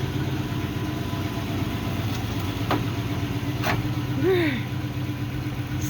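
Dump truck engine running at a steady idle, with two sharp clicks in the middle and a brief vocal sound near the end.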